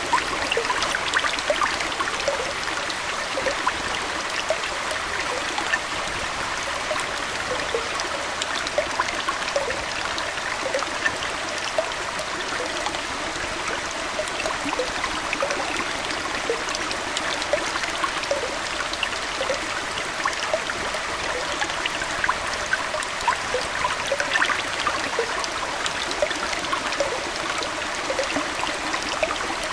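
Aquarium water trickling and bubbling steadily, with many small plinks and bubble pops scattered through it at irregular intervals.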